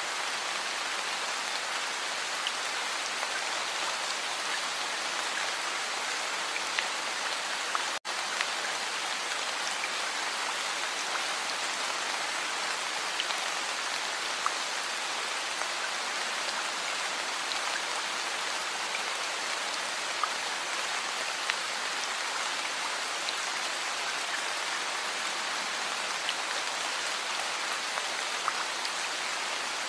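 Heavy rain falling steadily: a dense, even hiss with scattered louder drop ticks. It drops out for an instant about eight seconds in.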